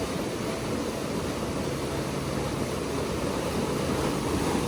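Steady rush of a flooded mountain stream, its water running high after heavy rain.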